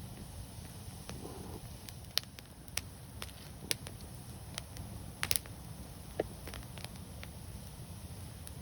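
Wood fire crackling: irregular sharp pops and snaps, a quick cluster of them about five seconds in, over a steady low rumble.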